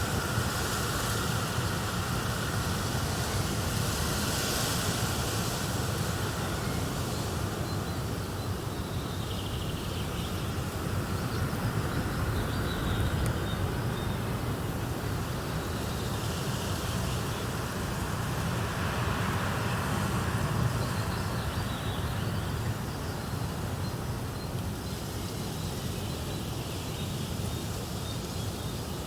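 Fireplace fire crackling steadily, layered with a continuous outdoor nature ambience.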